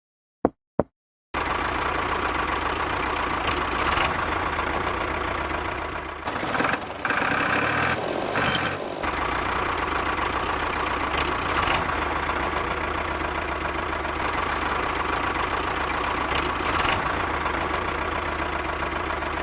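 Two quick knocks, then an engine running steadily that cuts in abruptly a little over a second in, with a short uneven stretch near the middle.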